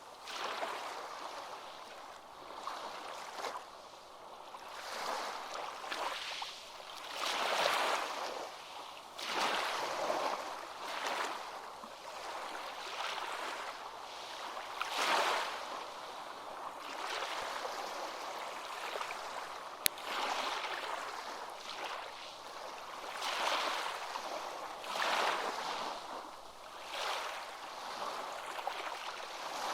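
Ocean waves washing in, rising and falling in surges about every two seconds. One sharp click comes about two-thirds of the way through.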